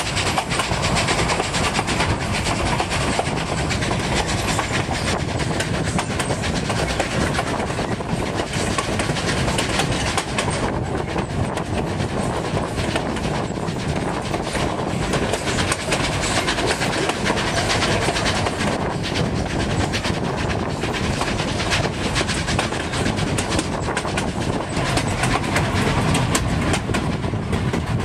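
Narrow-gauge steam train in motion, heard from aboard a passenger coach: a steady rumble and clatter of the cars rolling over the rails.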